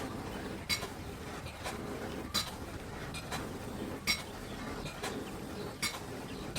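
Light metal-on-metal strikes, about one a second and unevenly spaced, each ringing briefly like struck steel.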